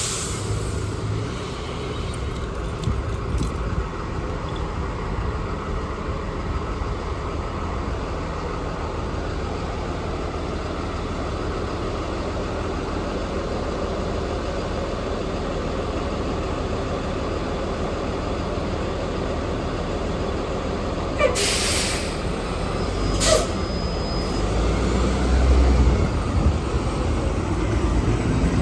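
Transit bus engine running with steady traffic noise. About 21 seconds in come two short, sharp air-brake hisses about two seconds apart, and then the bus's low engine rumble grows louder.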